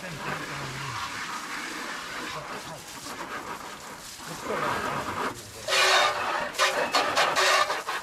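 Water spraying from a hose onto an ATV: a steady hiss that turns into louder, choppy bursts of spray a little past halfway.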